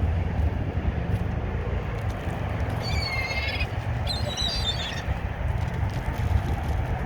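Wind buffeting the microphone, with two short, wavering bird calls about three and four seconds in.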